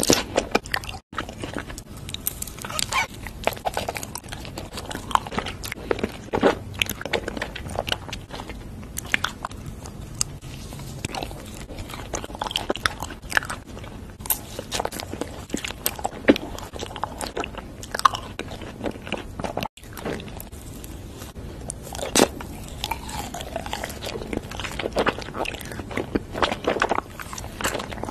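Close-miked ASMR eating sounds: a person biting into and chewing fruit-filled mochi, with many irregular sharp clicks and smacks. There are two brief breaks in the sound, about a second in and near the middle.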